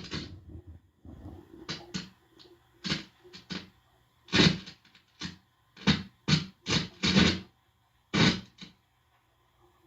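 Irregular scratchy crackles and rustles through an amplifier, about a dozen of them, some loud and some faint, with short quiet gaps between. This is contact and handling noise picked up through the amp as a hand and the mesh touch the head. It comes right after a steady amplifier buzz cuts off.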